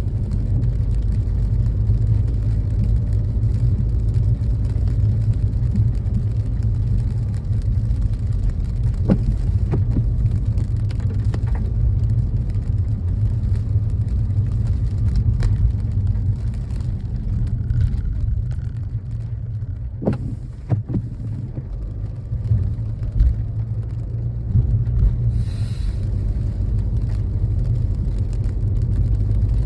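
A car driving, giving a steady low rumble of engine and road noise, with a few sharp knocks along the way.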